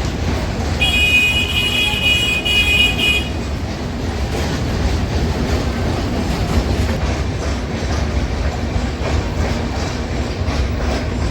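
A train running through the station with a steady rumble of wheels on rails. A high-pitched horn sounds about a second in and lasts about two seconds.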